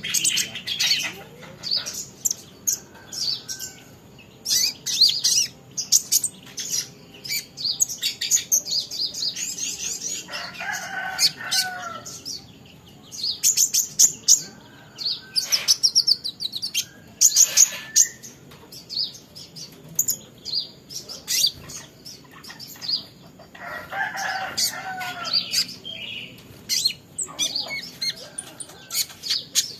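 Young green-plumaged kolibri ninja sunbird chirping and twittering rapidly in short, high bursts. Twice, at about ten and twenty-four seconds in, lower bending calls join in.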